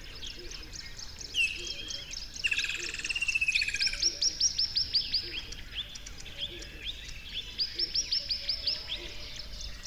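Birds singing: runs of quick, high down-slurred notes, about five a second, with a fast buzzy trill a little before the first run. The runs come twice, a few seconds apart.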